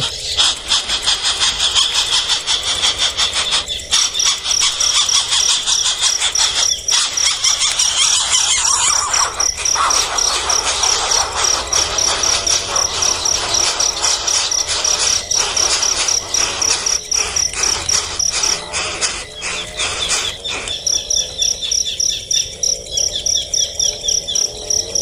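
Nestling birds' shrill begging squeals, with a steady high insect trill.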